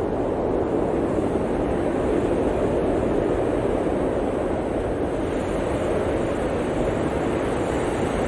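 Steady blizzard wind: a dense, even rushing noise that holds without gusts or breaks.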